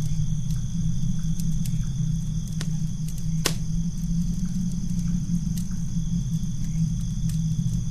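Campfire crackling, with sharp irregular pops, the loudest about three and a half seconds in, over a low steady rumble and a constant high-pitched two-note drone.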